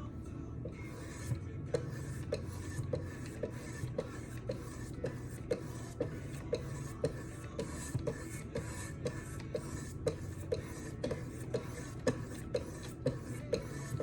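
Oiled 1,000-grit stones of a Wicked Edge guided sharpener stroking along a knife blade: a rhythmic scrape with a light click on each stroke, about twice a second, over background music.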